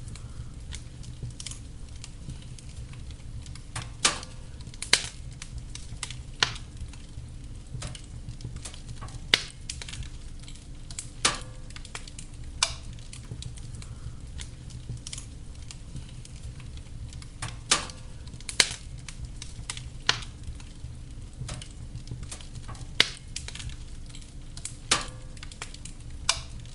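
Wood fire burning in a fireplace: a steady low rumble and hiss with sharp, irregular pops and crackles from the burning logs, a loud one every second or two.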